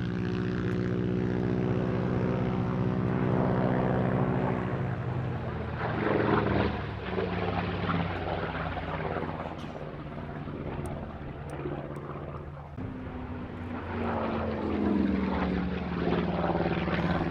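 Curtiss P-36C's Pratt & Whitney R-1830 Twin Wasp radial engine running hard in an aerobatic display. It passes close by twice, the pitch dropping as it goes past, about six seconds in and again near the end.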